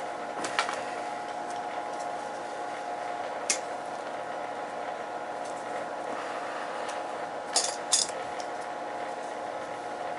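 Small metallic clicks and clinks of tools and wire work on a boiler control, a few sharp ones spread out with two close together near the end, over a steady background hum.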